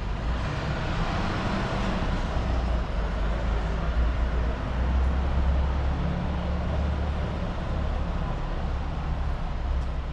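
Road traffic close by: a motor vehicle's low engine rumble with a hiss of tyre and road noise that swells over the first few seconds, while the rumble grows heavier towards the middle.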